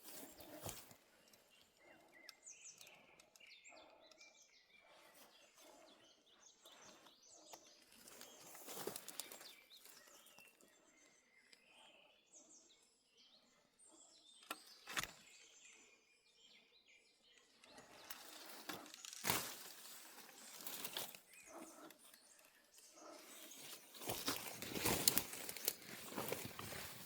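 Small birds chirping now and then, with rustling and crackling of plants and footsteps through vegetation that grows louder in the second half.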